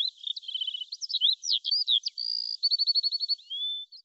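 A songbird singing a quick run of varied whistled notes, slurs and chirps. About two and a half seconds in comes a fast trill of about ten short repeated notes.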